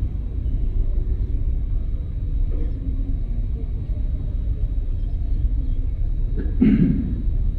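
Steady low outdoor rumble between the imam's calls, with a short voice-like sound near the end.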